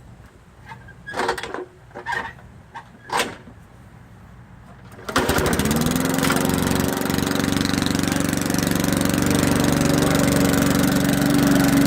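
Vulcan 20-inch push mower's 3.5-horsepower engine cold-started after priming: several short pulls on the starter cord, then about five seconds in it catches, picks up speed briefly and settles into steady running.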